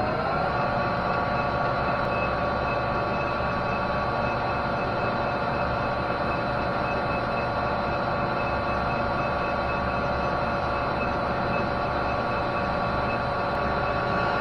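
Metal lathe running at a steady speed for a parting cut, its motor and gear train giving a steady whine of several tones that settles right after spinning up.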